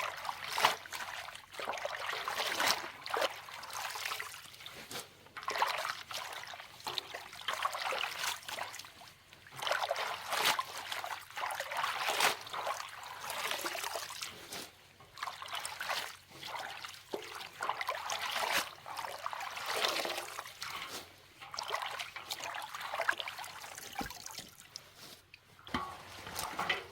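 Water trickling and splashing in uneven surges, one every second or two.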